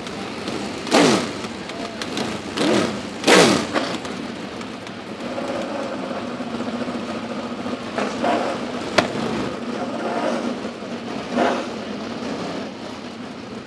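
Sprint car engines going by at speed, three loud passes in the first few seconds, each dropping sharply in pitch. After that there is a steady drone of engines, with a single sharp crack about nine seconds in.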